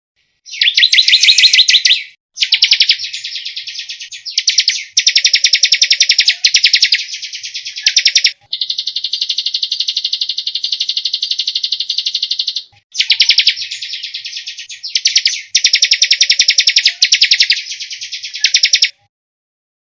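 Songbird song: dense, rapid-fire trills of high clicking notes in bursts of one to two seconds with short breaks, and a long, even buzzing trill of about four seconds in the middle.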